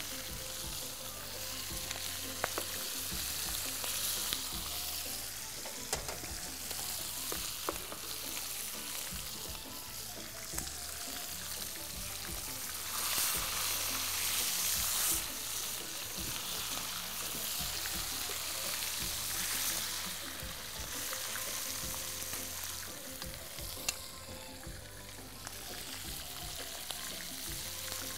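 Chicken pieces sizzling as they fry in a pan, the hiss swelling louder about halfway through. Now and then a sharp click of the tongs or spatula against the pan.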